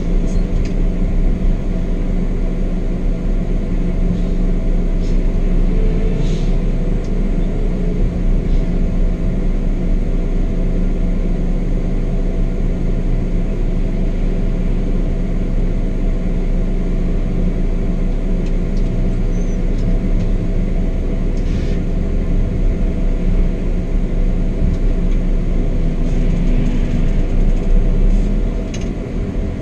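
Scania K420 double-decker coach running at steady speed, heard from the driver's seat: its engine gives a constant drone and rumble mixed with road noise, with a few faint rattles. The sound drops a little near the end.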